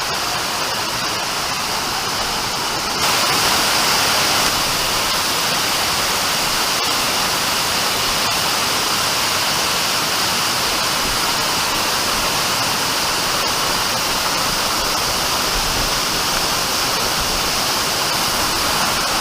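Waterfall cascading off rocks: a steady rush of falling water that gets louder and brighter about three seconds in.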